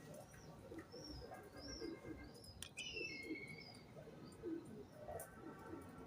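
Pigeons cooing in a continuous low, repeated murmur, while small birds give short high chirps about once or twice a second and one brief descending call about two and a half seconds in.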